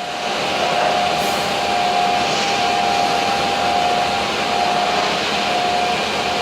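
Weeke BMG 111 CNC wood machining centre running, a steady whirring hiss with a steady whine that comes and goes.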